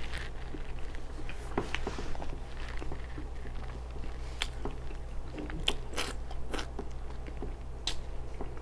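Close-miked eating sounds: chewing a mouthful of deep-fried ribs, with irregular wet mouth smacks and crisp crunchy clicks.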